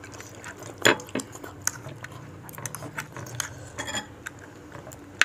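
Cutlery clinking and knocking against a bowl while eating bakso: a sharp knock just under a second in, the loudest, then another soon after and scattered lighter clicks.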